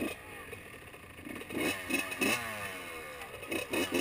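Motocross dirt bike engine revving, its pitch rising and falling several times as the throttle is worked.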